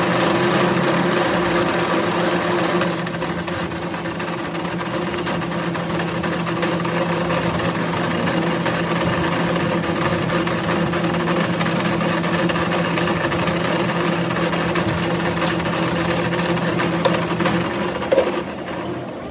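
A machine's motor running steadily with a constant hum and mechanical whirr, then stopping about a second before the end.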